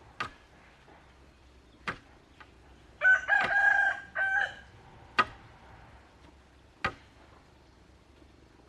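A rooster crowing once, a single call of about a second and a half starting about three seconds in. Four sharp knocks come a second or two apart around it.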